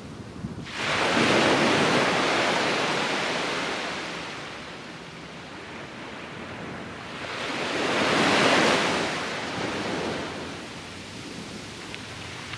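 Ocean waves breaking on the beach: one wave crashes about a second in and washes out over a few seconds, then a second swells up and breaks near the two-thirds mark before fading back to the steady hiss of the surf.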